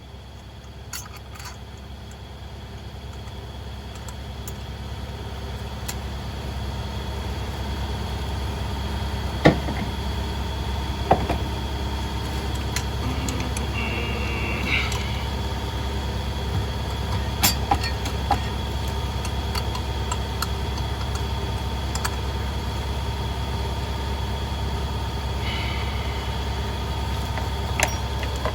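A steady low machine hum that grows louder over the first several seconds and then holds, with a few sharp clicks and knocks of hand tools on metal scattered through it.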